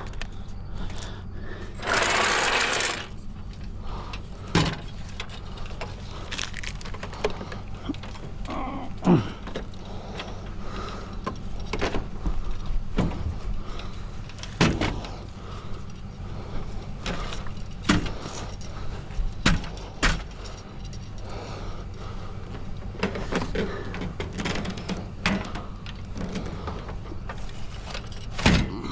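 Scattered knocks and clanks of scrap metal being handled and worked on, over a steady low hum. A harsh, noisy burst lasting about a second comes about two seconds in.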